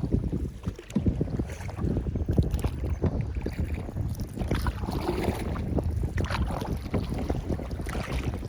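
Wind buffeting the microphone over water splashing and lapping around a canoe on a river.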